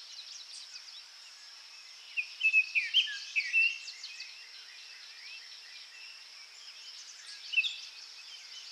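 Small birds chirping in short, quick calls: a cluster of them about two seconds in and one more near the end, over a steady high hiss.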